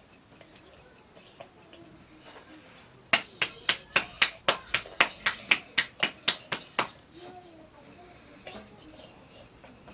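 A rapid run of sharp knocks or strikes, about four a second, starting about three seconds in and lasting about four seconds.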